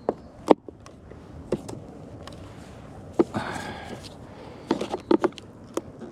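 Scattered sharp knocks and clicks of a slotted wooden entrance board being pushed down and seated in a hive's bottom board, with a quick run of knocks about five seconds in.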